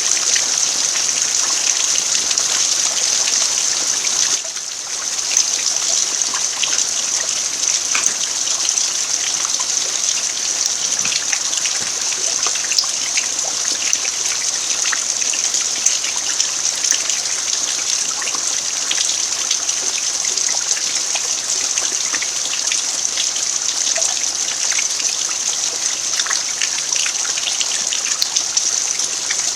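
Steady rain falling on an earth yard: an even hiss, dense with the small ticks of individual drops. The level dips briefly about four seconds in, then carries on as before.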